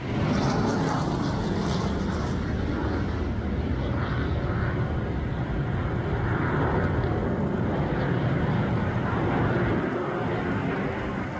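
Steady jet engine noise from F-16 fighter jets in flight.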